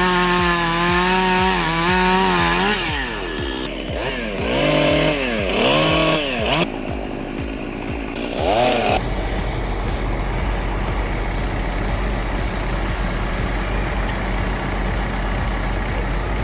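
Chainsaw running at high revs while cutting, its pitch dipping and rising again and again as the throttle is worked and the chain bogs in the wood. After about nine seconds it gives way to a steady low rumbling noise.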